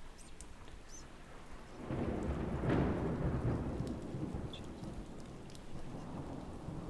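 Steady rain with a roll of thunder that swells about two seconds in, peaks soon after and slowly rumbles away.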